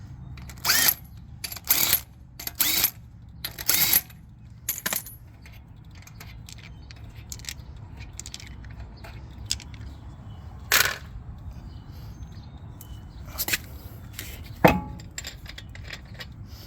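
Steel lug nuts clinking as they are spun off a truck wheel by hand and set down: a run of sharp metallic clinks about a second apart, then scattered lighter clicks and a few more clinks, with a sharper knock near the end.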